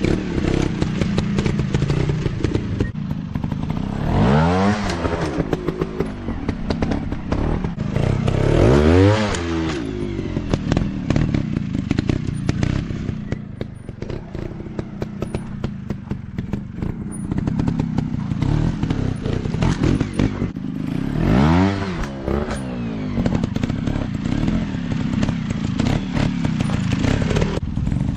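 Off-road motorcycle engines running, revving sharply up and dropping back several times, with a steady rough clatter and knocks throughout.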